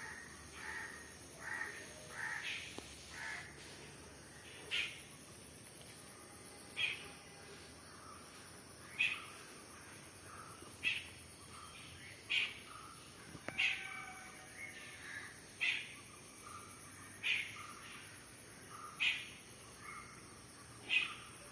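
A bird calling over and over, one short call about every two seconds, over a steady faint high-pitched hiss.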